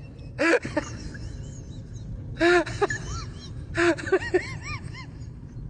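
An animal's short, squeaky chirping calls, coming in three quick runs, each run opening with a brief harsh burst.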